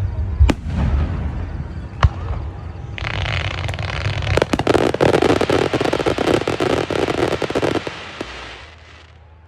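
Fireworks: two sharp bangs, then a dense crackling burst of many rapid pops with a hiss that lasts several seconds and fades out near the end.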